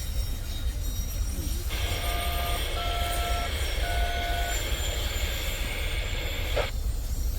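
Railroad radio on a scanner opens with hiss and carries three short touch-tone beeps, each a little higher than the one before: a train crew dialling the dispatcher. The channel then closes with a squelch click near the end, over a steady low rumble.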